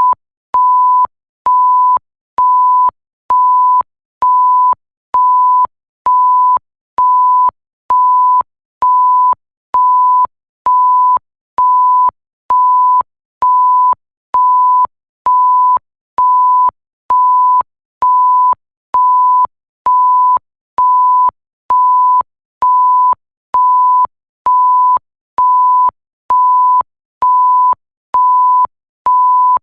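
Censor bleep sound effect: a single steady pure beep tone, each beep lasting a little over half a second and repeating about once a second without change, with a faint click as each beep starts and stops.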